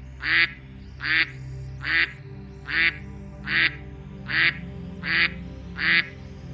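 Mallard duck quacking over and over, about one quack every 0.8 seconds, over soft background music.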